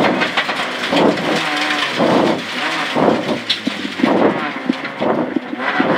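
Rally car's engine heard from inside the cabin, its pitch rising and falling about once a second as it is driven hard through a right hairpin, over road and tyre noise.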